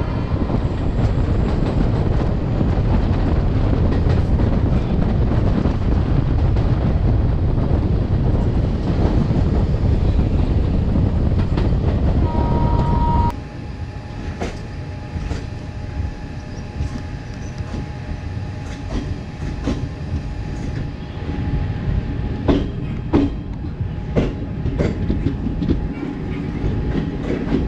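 Passenger train running on the track: a loud, even rush and rumble of wheels and air, then, after a short high-pitched tone about halfway through, a sudden drop to quieter running with a faint steady hum and scattered clacks of the wheels over rail joints.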